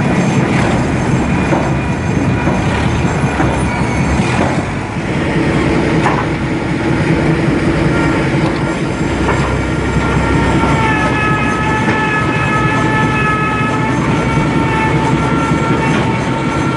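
Mobile log-debarking machine running and stripping bark from a log: steady loud mechanical clatter with occasional knocks. From about ten seconds in, a high, steady squeal of several tones sits over it.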